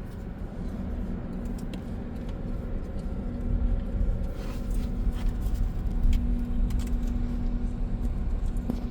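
Low rumble of a car creeping forward slowly, heard from inside the cabin, with a steady hum and a few light clicks.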